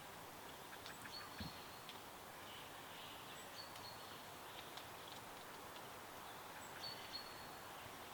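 Songbirds calling faintly: a thin, high held whistle three times, with a few short higher chirps, over a steady hiss of a flowing stream.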